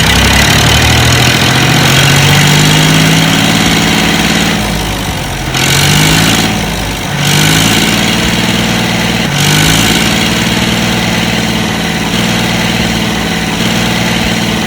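An engine running and revving: its pitch climbs, drops back three times and rises again. It starts and cuts off abruptly.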